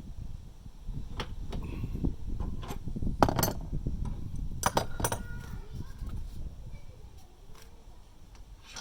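Metal tools and pipe fittings clinking and being handled while flare nuts are fitted and tightened onto air-conditioner refrigerant pipes: a handful of sharp metallic clinks, the loudest a little past the middle, over low rustling handling noise.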